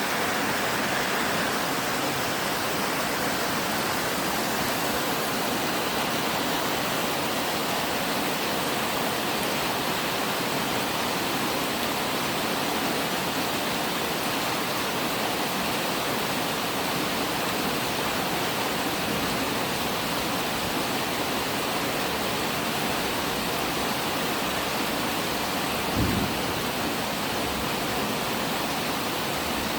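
Steady rain falling, an even hiss with no change in level. Near the end there is a single brief low thump.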